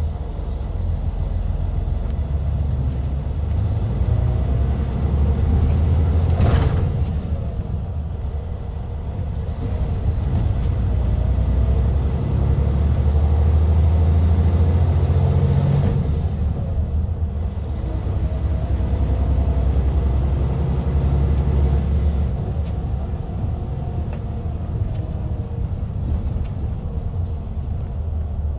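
Hyundai D6CC Powertec 380 straight-six diesel of a 2014 Hyundai Universe Comfort coach running under way, a low drone that swells and eases in three or four long surges. A brief sharp sound cuts across it about six and a half seconds in.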